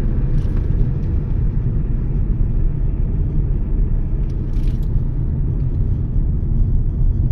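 Toyota Yaris cruising on the road: a steady low rumble of road and engine noise.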